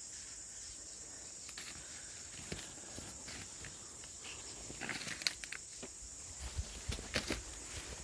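A steady high-pitched drone like crickets or cicadas, with scattered sharp clicks and knocks that grow busier from about halfway in.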